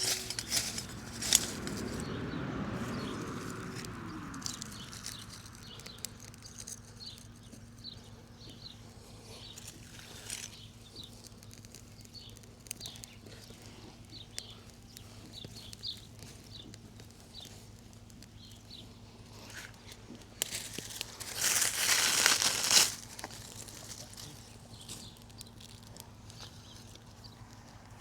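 Firesteel (ferro rod) being scraped to throw sparks onto damp tinder, a burst of harsh rasping strokes lasting about two seconds near the end. Before it, rustling as leaves and bark are handled, then scattered faint short chirps.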